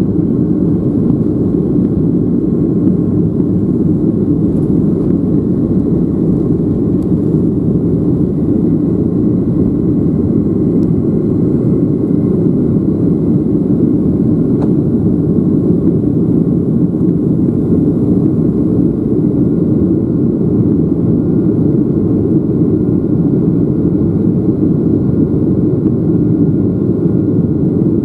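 Boeing 737-800's CFM56 jet engines during takeoff, a loud, steady low roar that does not change.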